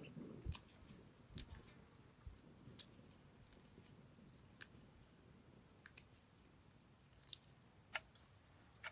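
Near silence broken by scattered faint, sharp clicks and soft taps, roughly one every second.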